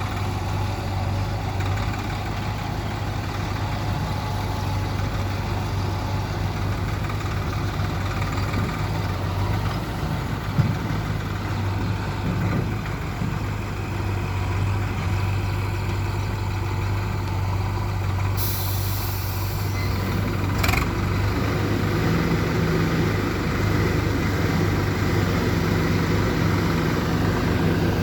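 Swaraj 744 XT tractor's diesel engine running steadily, its note rising to a higher speed about three quarters of the way through. A brief hiss comes about two-thirds of the way in, followed by a single knock.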